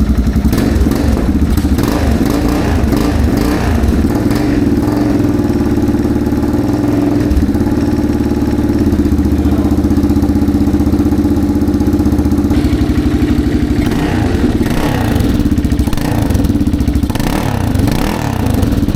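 1985 Yamaha XT600's air-cooled single-cylinder four-stroke engine running steadily through a homemade exhaust link pipe, just after being kick-started back to life following an oil change and new spark plugs. The engine speed wavers a little in the last few seconds.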